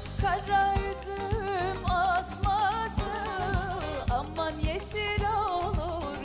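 A woman singing a Turkish folk song with ornamented, wavering vibrato, over band accompaniment with a steady beat.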